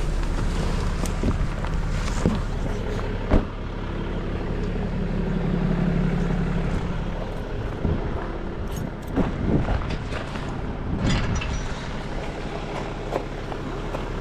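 Tow truck engine idling steadily, with several sharp clanks and knocks scattered through, the strongest about three seconds in.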